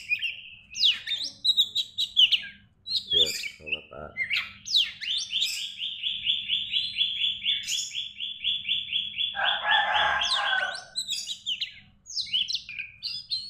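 An oriental magpie-robin (kacer), in moult, singing: varied chirps and whistles, then a long run of fast repeated notes, about four a second, lasting some six seconds, with a lower, harsher chatter joining near its end. A faint steady low hum lies underneath.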